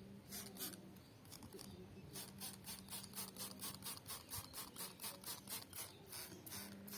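White-rumped shama bathing in water, fluttering its wings in the bath: a few splashes, then a fast run of splashes, about five a second, from about two seconds in.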